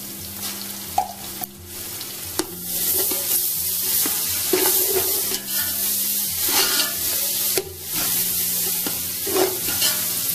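Sliced onions and freshly added ginger-garlic paste sizzling in hot oil and ghee, stirred with a metal spoon that scrapes and knocks against the metal pot. The sizzle grows louder a couple of seconds in as the stirring gets going.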